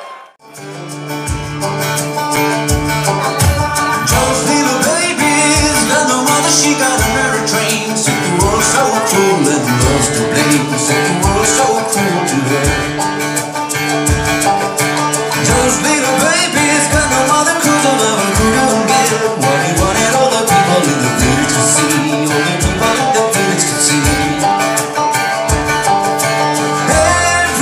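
Live bluegrass-style band music with plucked string instruments and singing over a steady kick-drum beat, starting right after a brief gap.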